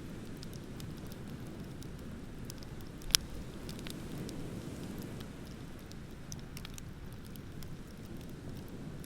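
Wood bonfire crackling, with sparse sharp snaps and one loud pop about three seconds in, over a steady low rush of ocean surf.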